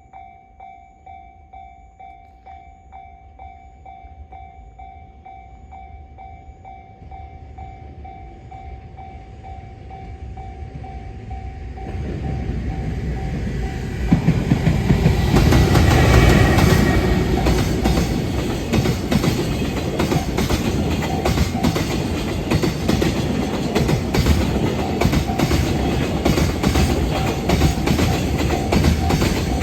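Freight container train approaching and passing close by: a steady pulsing ring at the start gives way, about twelve seconds in, to a swelling rumble that is loudest a few seconds later, then the long train of container wagons runs past with continuous wheel clickety-clack over the rail joints.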